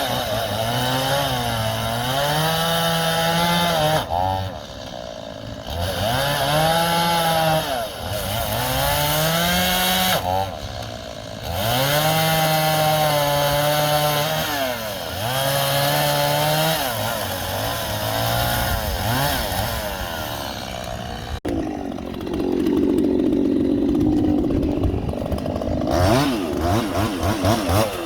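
Chainsaw engine cutting into a tree, its pitch rising as the throttle opens and sagging as the chain bites into the wood, with two short throttle-offs. About 21 s in it drops suddenly to a lower, rougher running sound, ending in a run of quick, even pulses.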